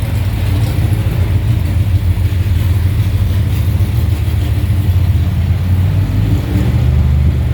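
Car engine idling with a steady low rumble, which shifts slightly about six and a half seconds in.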